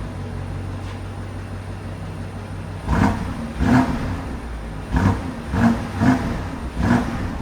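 BMW X5 50i's twin-turbo V8 idling through the stock exhaust, then blipped about six times in quick succession about three seconds in, each rev rising sharply and dropping back to idle.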